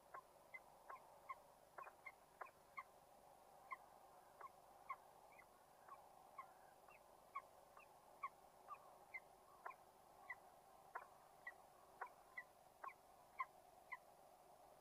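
A bird calling over and over in faint, short, rising chirps, about two a second, stopping near the end, over a faint steady hum.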